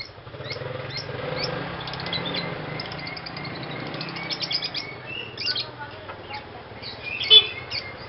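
Lovebird chirping: quick runs of short, high chirps, with a louder burst of calls about seven seconds in.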